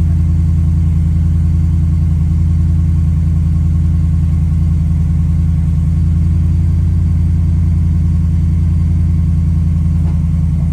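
Ford F-150's 5.0-litre V8 idling steadily through a MagnaFlow Street Series aftermarket exhaust: a deep, even growl with no revving.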